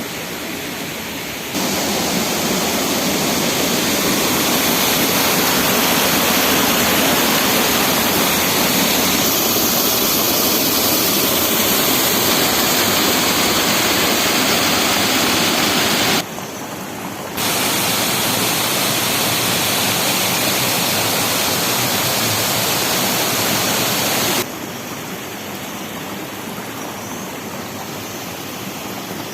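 Waterfall, a steady rush of falling water. It gets abruptly louder about a second and a half in, dips sharply for about a second just past the middle, then drops back to a lower level a few seconds before the end.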